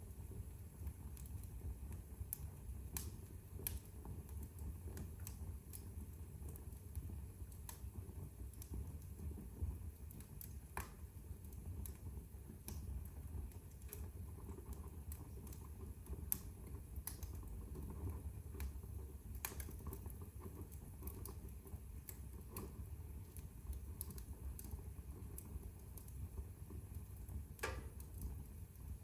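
Wood fire burning in a fireplace: a low steady rumble of flames with irregular sharp crackles and pops, one louder pop about sixteen seconds in and another near the end.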